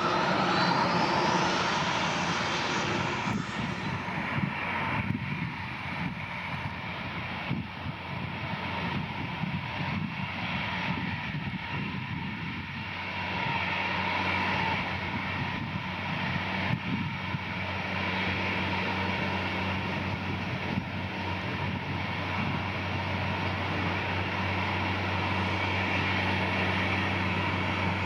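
Boeing 787-9 jet engines running: a rising whine in the first few seconds, then a steady, dense jet noise with a low hum underneath.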